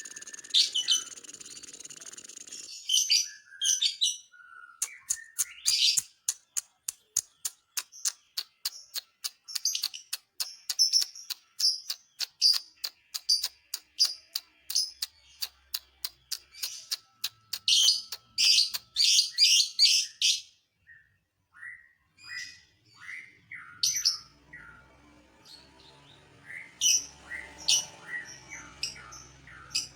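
Lovebird singing: a long run of sharp, high, clipped chirps at about three a second, the rapid ticking song that keepers call ngetik, easing after about twenty seconds into scattered lower chirps and short high calls.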